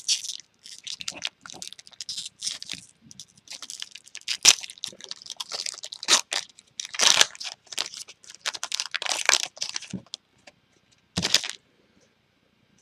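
Trading-card pack wrappers crinkling and tearing as packs of Topps Chrome baseball cards are handled and opened, in a run of sharp crackles that stops about a second before the end.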